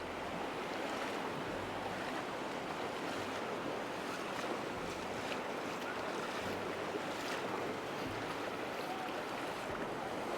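Floodwater from an overflowing canal rushing steadily, a continuous even wash of moving water.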